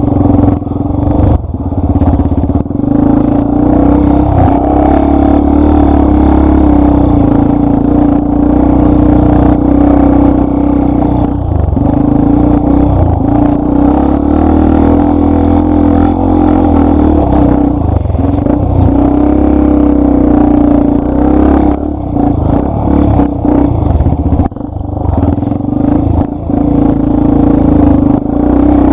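Yamaha Lander 250's single-cylinder four-stroke engine running steadily under load on a dirt trail, with rattling and clatter from the bike, and a few short dips as the throttle eases near the end.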